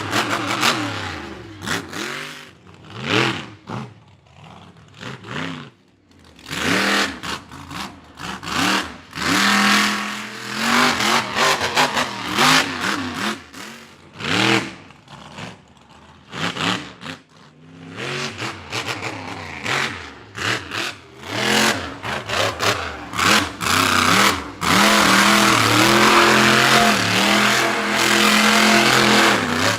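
Monster truck engines revving hard in repeated bursts, the pitch rising and falling with each blip of the throttle. Near the end comes a long, sustained full-throttle run.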